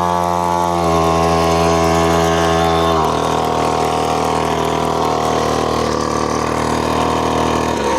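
Funbikes MXR 50 mini dirt bike engine running at a fairly steady speed through a cone slalom. Its tone changes about three seconds in, and the engine note fades out near the end.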